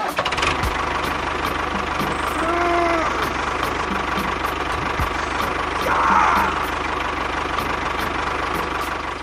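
An engine running steadily with an even knocking beat.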